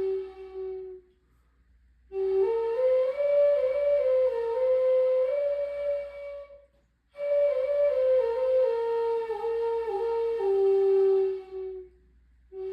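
A flute playing a slow melody in long held phrases, with short breath pauses between them, about a second and two seconds in and again near the end.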